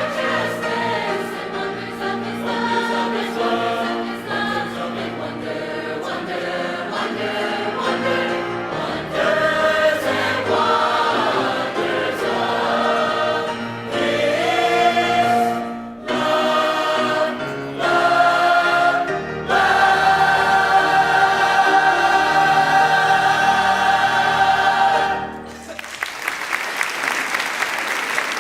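High school choir singing in parts, building to a long held final chord that cuts off about 25 seconds in. Audience applause breaks out right after, near the end.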